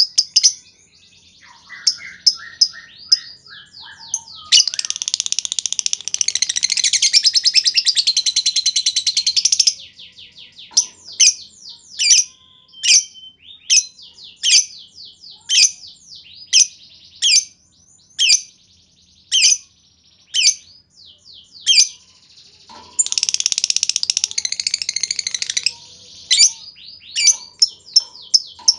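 Lovebirds calling: runs of sharp, high, clicking chirps (the 'ngetik' call), then single chirps spaced well under a second apart. Two long unbroken chattering trills (the 'ngekek' call) stand out, one about five seconds long in the first third and a shorter one near the end.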